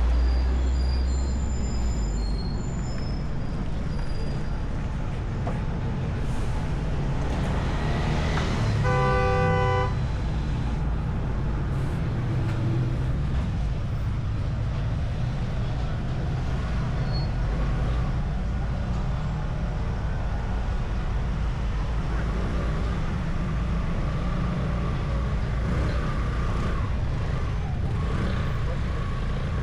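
A car driving: a steady low rumble of engine and road noise. About nine seconds in, a vehicle horn gives one toot of about a second.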